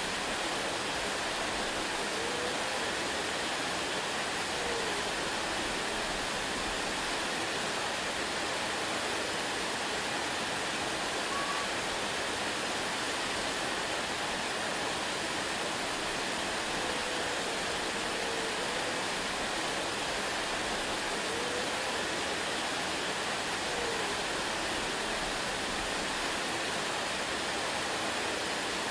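A waterfall rushing in a steady, unchanging roar of water, with a few faint, brief pitched glides over it.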